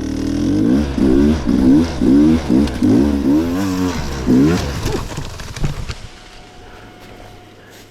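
Enduro dirt bike engine revved in a series of about seven quick blips, each rising and falling in pitch, then dropping to a quieter steady low running sound about five seconds in.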